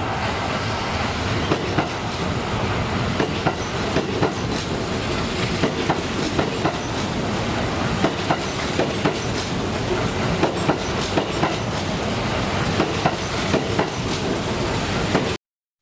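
Train running along the rails after departing, steady running noise with the clickety-clack of wheels over rail joints; it cuts off suddenly near the end.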